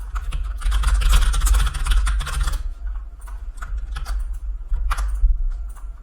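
Fast typing on a computer keyboard for about two seconds, followed by a few scattered single clicks.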